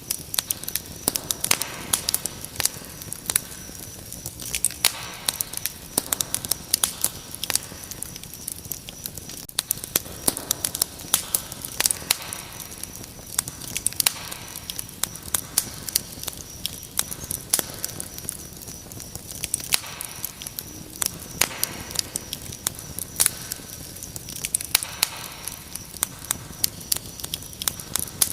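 Wood fire crackling, with frequent irregular sharp pops and snaps over a soft hiss, and a steady high cricket trill underneath.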